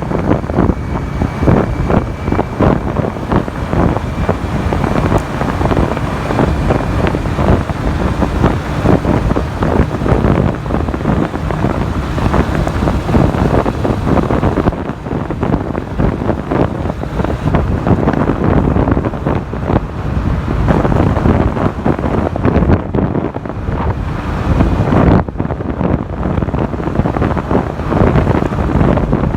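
Wind buffeting the microphone on a moving motorcycle, a loud, gusty rush, with motorcycle and road noise underneath.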